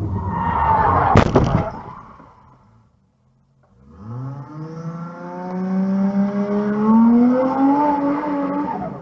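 Car traffic with one sharp bang about a second in, dying away. After a short gap, a car engine accelerates, its pitch climbing steadily.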